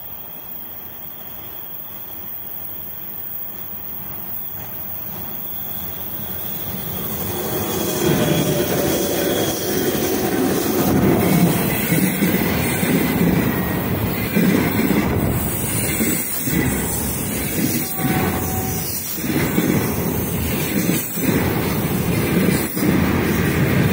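A 3ES5K 'Ermak' electric locomotive with a container freight train approaches, its noise building over the first eight seconds. The container wagons then roll past close by in a steady rumble, with sharp wheel knocks over rail joints now and then.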